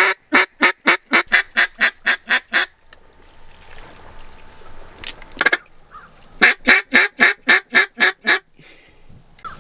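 Mallard duck call blown by a hunter: a long string of evenly spaced hen quacks, about four a second, then a single quack, then a second shorter string.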